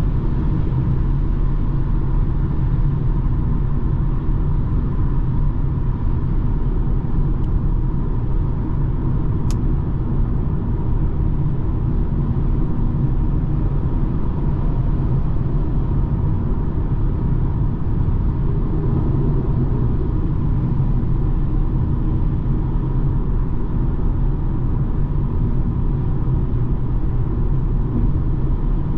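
BMW 220d xDrive Gran Coupe on the move, its 2.0-litre four-cylinder diesel and tyre noise making a steady low rumble with no change in pace.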